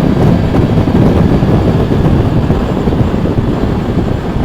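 Motorcycle on the move, heard on the rider's own camera microphone: a loud, steady low rumble of wind rush mixed with engine and road noise.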